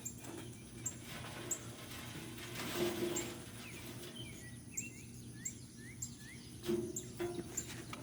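Outdoor ambience: a bird gives a run of short rising chirps in the middle, over an insect's high chirp repeating about twice a second. A brief rustle comes about three seconds in.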